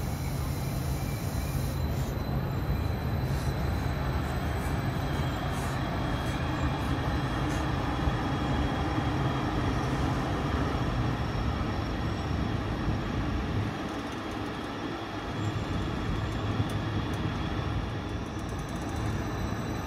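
Electric train running on the rails at the station: a steady rumble and rattle of wheels with a thin, steady high whine, and a few clicks over the first half.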